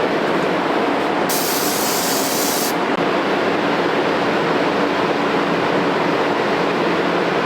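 Steady loud rushing noise with a short, high spray hiss about a second in that lasts about a second and a half.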